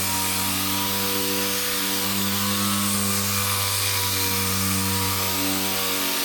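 Dual-action sander with 320-grit paper on an interface pad running flat over high-build primer on a car body panel: a steady whir with a hiss from the paper.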